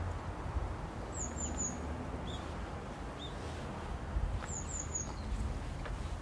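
Small birds chirping: two quick runs of three short, high, falling chirps a few seconds apart, with a couple of lower single chirps between, over a steady low outdoor rumble.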